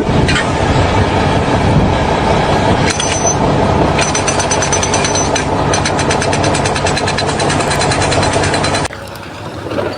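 Loud machinery running, with a fast, even rattle from about four seconds in; it cuts off suddenly near the end.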